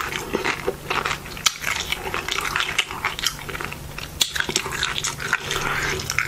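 Tortilla chips being crunched and chewed close to the microphone, an irregular run of crisp cracks and crackles.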